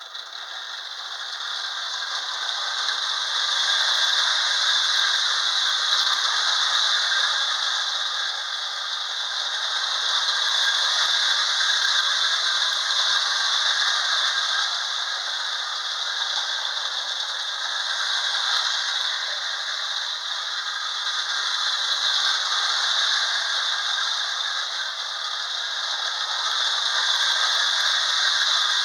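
Lionel model trains running around a small layout: steady metallic clatter of wheels on the track and whirring motors, growing louder and softer as the trains come near and move away.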